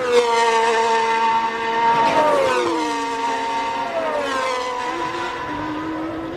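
Formula 1 car engines screaming at high revs as cars pass, the pitch falling in glides about two and four seconds in as they go by.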